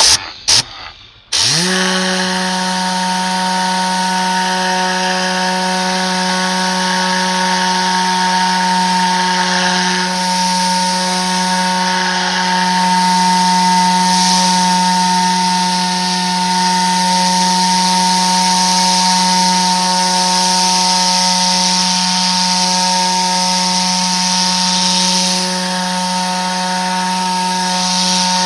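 Tornador Z-20 compressed-air cleaning gun: two short blasts, then running continuously with a steady whirring hum over the hiss of rushing air.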